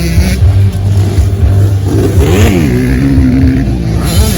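Motocross dirt bike engines revving on the track, the pitch rising and falling. About two seconds in, one bike revs up and drops back, then holds a steady note for a second or so.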